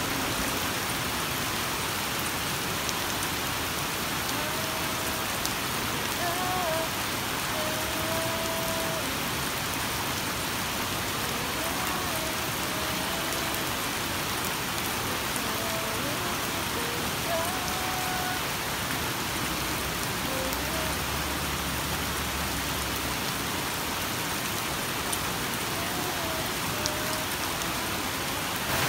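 Heavy rain falling on a lake's surface, a steady hiss.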